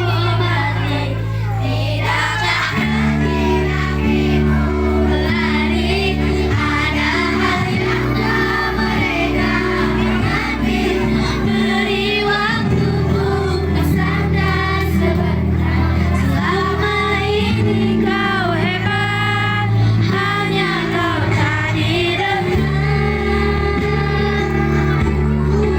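A child singing a slow melody in a soft voice over instrumental backing, with sustained low chords that change every couple of seconds.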